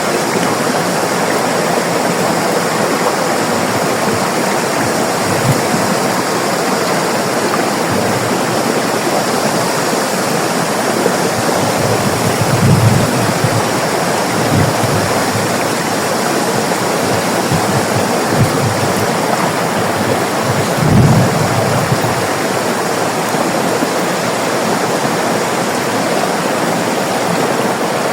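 River water flowing and rushing steadily, with a few brief deeper surges, the strongest about 13 and 21 seconds in.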